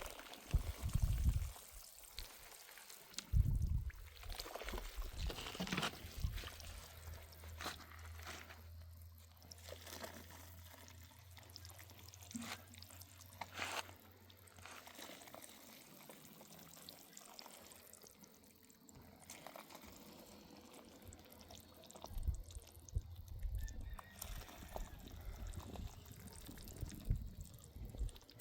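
Water running and trickling, with a few sharp knocks.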